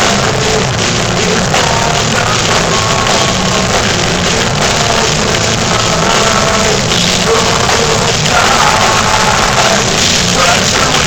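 Heavy metal band playing live, loud and dense with drums and guitars, in a poor-quality recording.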